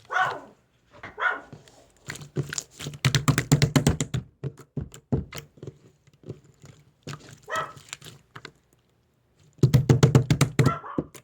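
Pumpkin slime being squeezed and kneaded by hand, giving runs of rapid wet clicks and pops, densest a few seconds in and again near the end.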